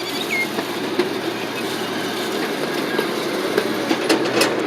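Open-air ride train rolling along at low speed: a steady rumble with scattered clicks and knocks, a few stronger ones close together near the end.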